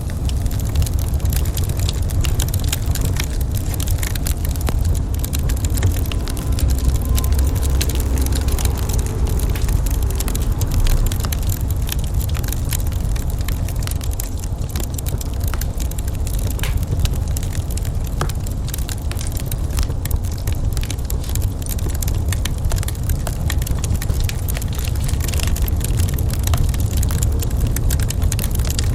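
Wood fire crackling in a fireplace: many scattered sharp pops and crackles over a steady low rumble.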